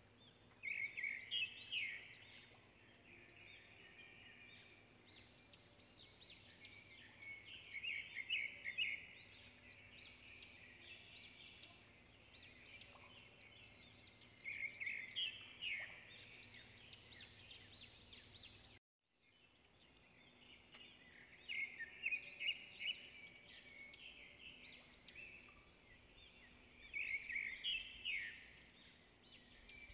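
A songbird singing a short burst of quick high chirps about every six seconds, over a faint steady hum. The sound drops out for a moment a little past halfway.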